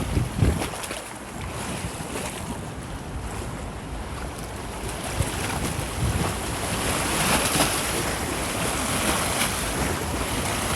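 Strong wind rushing through trees, building into a louder gust from about six seconds in, with wind buffeting the microphone in low rumbles about half a second in.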